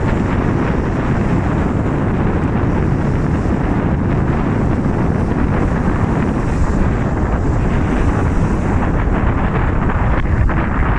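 Wind buffeting the microphone: a steady, loud low rumble with no break.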